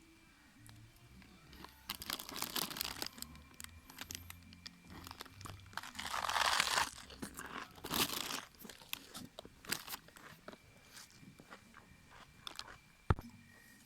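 Irregular crunching and crinkling noises, loudest about six to seven seconds in, with a sharp click near the end.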